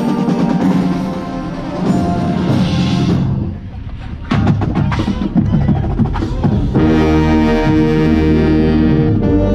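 Drum corps brass and percussion playing loudly, heard from inside the tuba section: sustained brass chords, a short drop in level, then a run of sharp percussion hits, and a loud held brass chord starting about seven seconds in.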